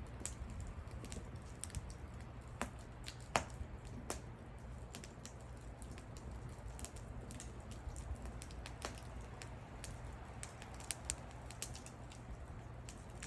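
Wood fire crackling, with irregular sharp pops and snaps over a low steady rumble; one louder pop about three and a half seconds in.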